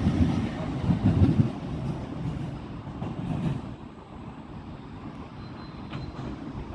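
Train rumbling along the track, loudest at first and dying away after a few seconds as it moves off.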